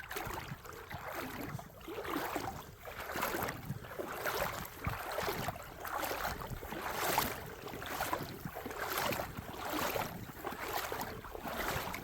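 Footsteps of someone walking outdoors, one crunching step about every second.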